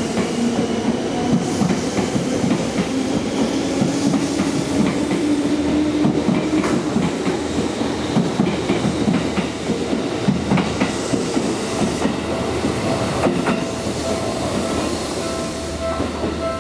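Seibu 10000 series Red Arrow electric limited express train running past, a steady rumble with the clatter of wheels over rail joints. A hum rises in pitch over the first several seconds.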